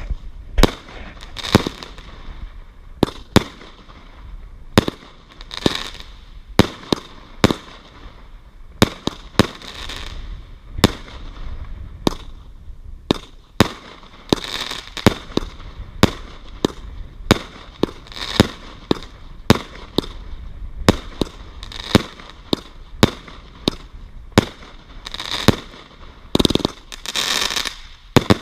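Fireworks going off in a continuous run of sharp bangs, roughly one to two a second, with crackling and fizzing between the shots.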